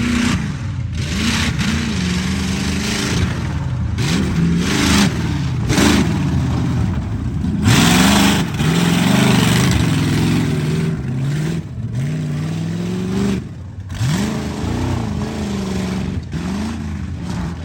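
Truck engine revving hard and backing off over and over, its pitch climbing and dropping every second or two, with loud rushes of noise in between, the biggest about eight seconds in.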